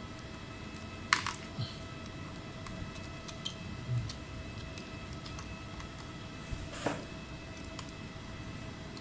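Scattered small clicks and taps of hand work on a laptop mainboard at a repair bench. The loudest click comes about a second in and another near the seventh second, over a steady electrical hum.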